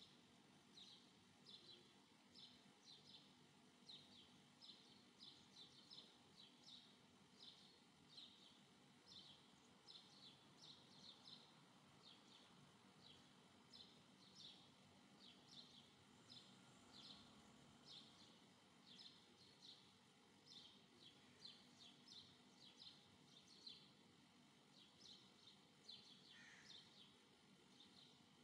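Faint bird chirping, a few short high chirps a second, over quiet room noise, with a couple of lower falling calls near the end.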